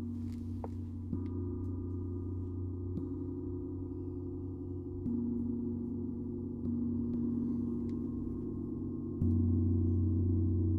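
Gong played softly for a sound bath, its low tones sustained in a continuous drone. Soft mallet strokes come every two seconds or so, each shifting the mix of tones. It grows clearly louder near the end.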